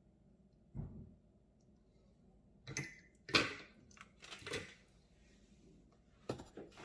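A few knocks, clicks and rustles of hands handling a computer case and its cables, the loudest about halfway through.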